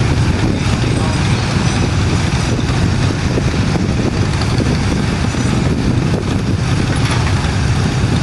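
Antique tractor engine running steadily and loudly, with a low, deep drone and no rise or fall in speed.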